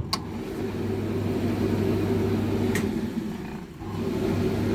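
Hotpoint TL51 tumble dryer switched on and running: a steady motor hum as the drum turns, with a light click near the start and a brief dip in level about three and a half seconds in.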